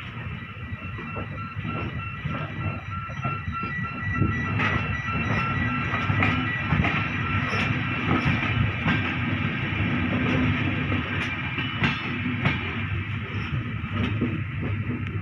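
Passenger train coach rolling along the track, heard from an open door: a steady rumble of wheels on rail with irregular sharp clicks and knocks as the wheels pass over rail joints, and a thin high squeal held for a few seconds in the first half.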